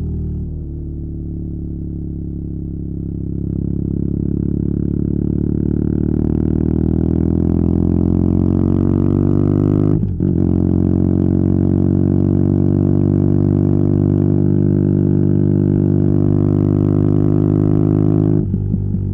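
BMW R nineT's air/oil-cooled boxer twin through a Competition Werkes slip-on exhaust, accelerating hard with the pitch climbing steadily. About ten seconds in it dips briefly for an upshift, then climbs again until the revs drop near the end.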